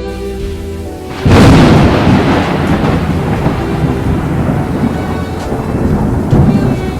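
A thunderclap breaks in about a second in, loud and sudden, then rolls on as a long low rumble over the hiss of rain, with eerie music faintly underneath.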